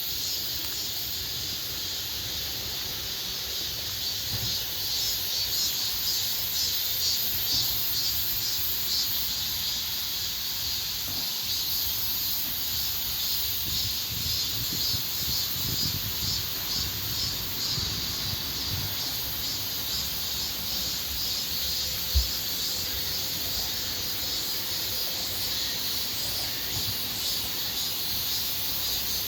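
A summer insect chorus: cicadas singing in a steady, pulsing drone, with crickets and other insects shrilling higher above. Low uneven rumbling runs underneath, and a single short thump comes about three-quarters of the way through.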